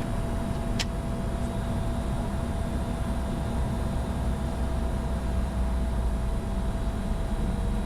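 Steady cockpit noise of a Bombardier Challenger 605 business jet in flight on approach: a low rumble of airflow and engines with a faint steady hum. A single short click about a second in.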